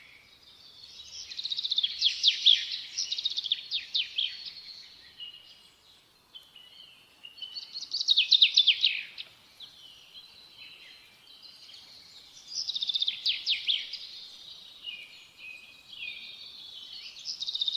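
A songbird singing: high, fast trilling phrases about every five seconds, with softer twittering between them.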